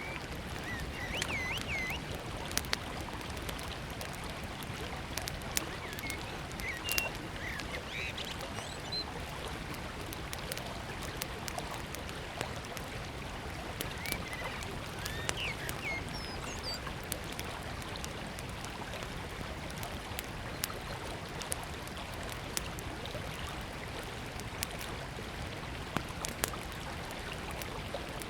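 Steady rushing of a forest river, with a small wood fire crackling in scattered sharp pops. Birds chirp briefly now and then, near the start and again about midway.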